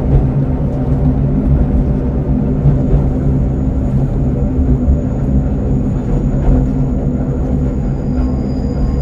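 KiHa 47 diesel railcar running, heard from inside the passenger cabin: a steady low diesel engine drone and wheel rumble, muffled by a pocketed microphone. A faint thin high whine joins about three seconds in, and a second one near the end.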